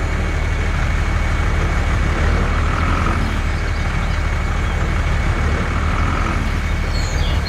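Home-built mini tractor's motor running steadily: a low rumble with a thin, steady high whine over it.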